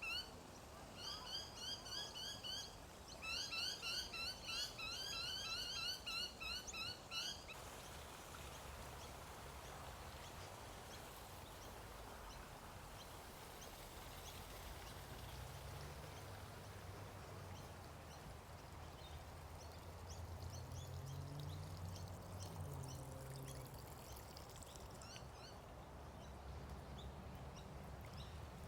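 A bird calling in a rapid run of short, rising, ringing notes for the first seven seconds or so, then stopping. Quiet open-air background follows, with a faint low hum that swells and fades about two-thirds of the way through.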